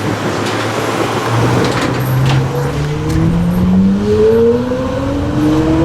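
A car engine accelerating, its pitch rising steadily through the second half, over street traffic noise.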